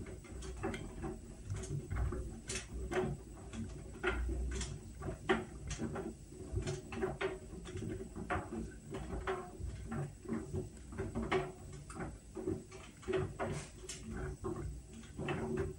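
Whirlpool washing machine running its Steam Refresh cycle: a steady low motor hum with many irregular clicks and light knocks.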